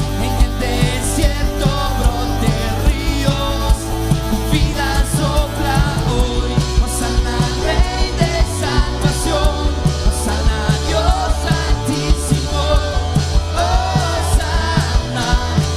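Rock-style worship band playing, with drums keeping a steady beat under bass and guitars.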